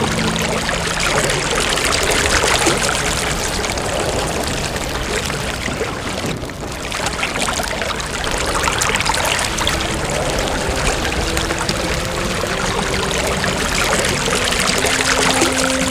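A steady rushing, crackling noise from a sound-effects track, dipping briefly a little past the middle. Faint held low notes of background music come in over its second half.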